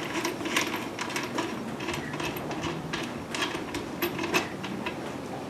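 Light clicks, small knocks and rattles of metal and plastic parts being handled while fitting a snorkel's parts and clamp, coming irregularly.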